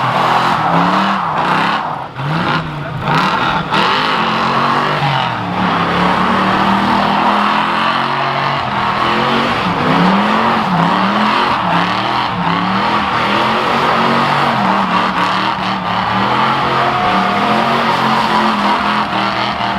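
Car doing a burnout: the engine is held at high revs that rise and fall over and over, over the continuous squeal and hiss of the spinning rear tyres.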